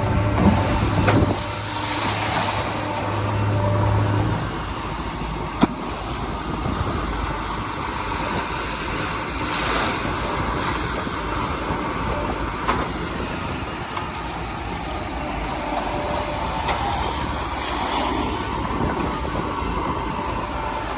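A heavy diesel vehicle engine running steadily, its low hum falling away about four seconds in, leaving a rough, noisy wash of sound with a few sharp knocks.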